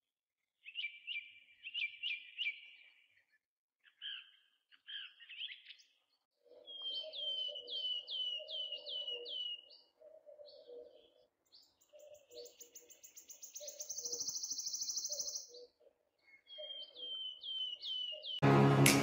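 Birds chirping: several series of quick, falling chirps and a long, rapid trill in the middle. Loud music starts abruptly near the end.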